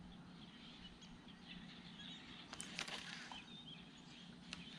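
Quiet pond-side outdoor air with a few faint bird chirps and some light clicks about two and a half to three seconds in.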